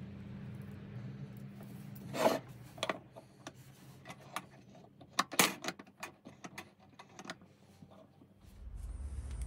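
Irregular knocks and clicks of parts being handled on a workbench, with two louder knocks about two and five and a half seconds in.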